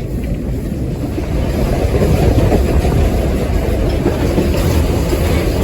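Steam locomotive running, heard from the cab: a loud, steady low rumble of the engine and wheels on the rails.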